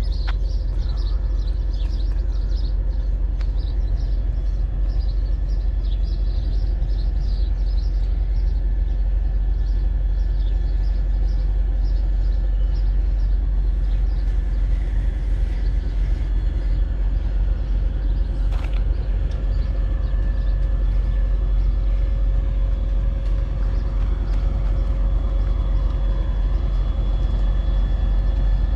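Diesel locomotive of a 2TE10U engine running steadily at a standstill, a deep, even rumble. Thin steady whining tones join it about halfway through.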